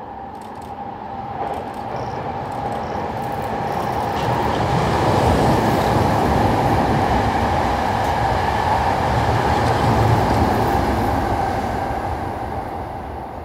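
Hankyu electric commuter train running past on the station track: wheel and track rumble swells over a few seconds, holds loud for several seconds as the cars go by, then fades away.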